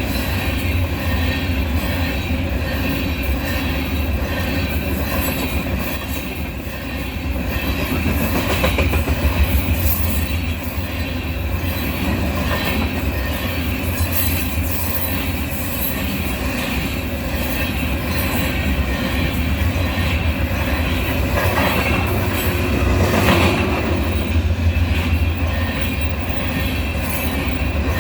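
Union Pacific freight train rolling past, its cars' steel wheels rumbling and clattering steadily on the rails, with some wheel squeal.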